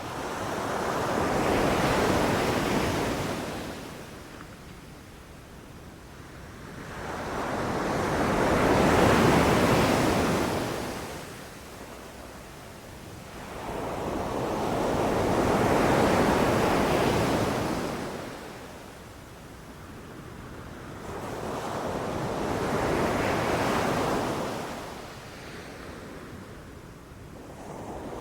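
Ocean surf on a beach: waves break and wash in and out in slow swells about every seven seconds, four in all, with the next one building near the end.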